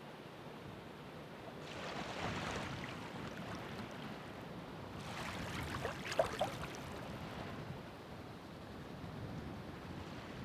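Ocean surf: two waves break and wash in, one about two seconds in and a louder one about five seconds in with a couple of brief sharp splashes, over a steady low wash of the sea.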